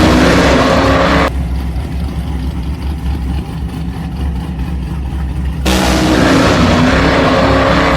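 A vehicle motor running steadily with a noisy hiss over it. From just after a second in it goes muffled for about four seconds, then the full sound comes back abruptly.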